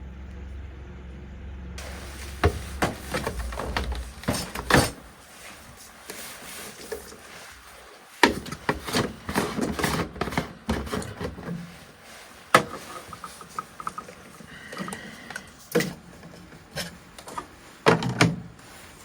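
A series of irregular knocks and clicks, with a low rumble in the first few seconds.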